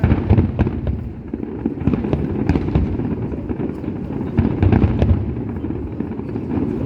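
Fireworks going off in a dense, continuous run of bangs and crackles, many overlapping, with a low rumble underneath.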